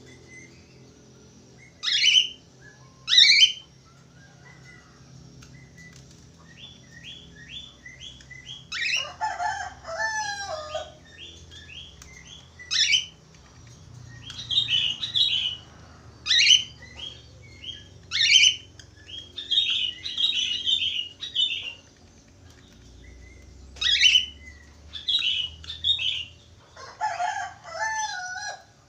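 Budgerigar chatter: loud, sharp sweeping chirps every second or two, rapid runs of short clicking notes, and warbled whistled phrases, twice dipping lower in pitch around a third of the way in and near the end.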